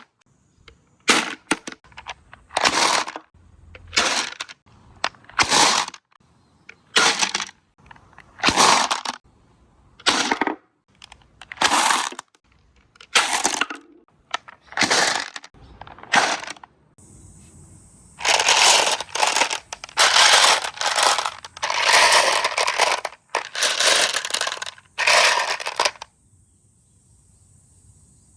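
Marbles rolling and clattering down a marble run track in repeated bursts, a little over one a second, with longer, denser clatter in the latter part.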